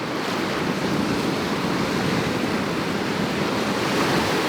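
Steady rush of ocean surf washing in.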